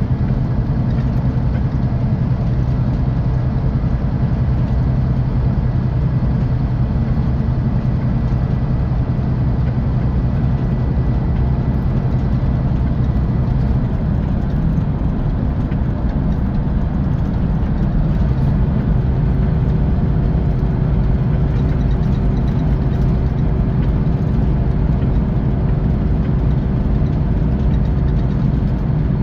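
Scania K450 coach's 13-litre six-cylinder diesel engine running steadily under way, with a constant low drone and road noise heard inside the bus. A faint steady whine joins about two-thirds of the way through.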